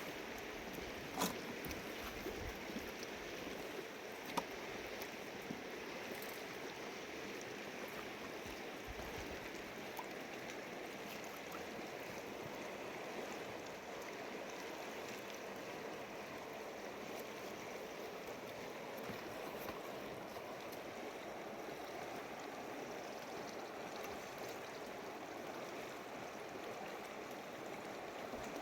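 Mountain river flowing steadily, with two brief knocks about one and four seconds in.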